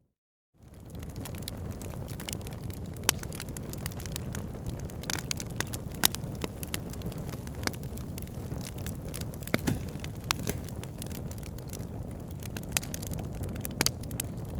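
Campfire crackling, with irregular sharp pops and snaps over a steady low rumble. The sound drops out briefly at the very start, then fades back in.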